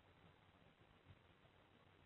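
Near silence: faint room tone, with one faint soft thump about halfway through.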